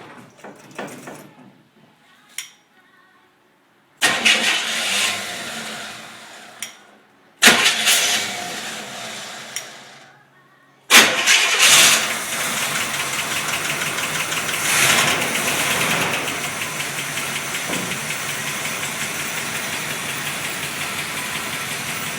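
1973 Buick Riviera's 455 V8 started three times: the first two runs fade out after a few seconds, the third catches and settles into a steady idle with a brief rise in revs, running at an idle speed that has just been turned down.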